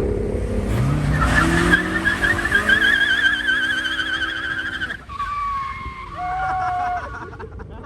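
A car's engine revving up as its rear tyres squeal in a sideways slide. The tyre screech wavers up and down for a few seconds, then settles into a steadier squeal and fades near the end.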